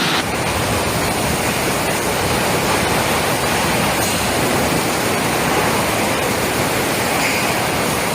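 Loud, steady rush of water: an unbroken noise with no separate impacts, as from a flood torrent or a heavy downpour.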